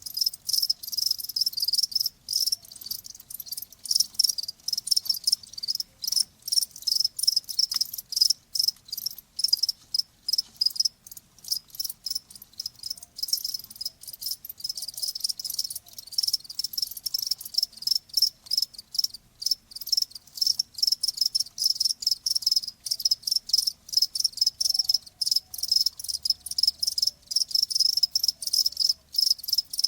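Crickets chirping in rapid, continuous pulsed trills, the song pitched high at around 5 kHz.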